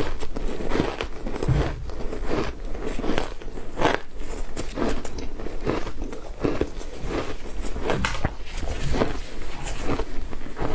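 Frozen matcha-powdered ice being bitten and chewed: a steady run of crunches, about one or two a second.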